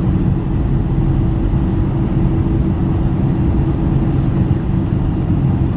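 Cabin noise inside an Airbus A319 taxiing after landing: a steady low rumble with a constant hum from its IAE V2500 engines at idle.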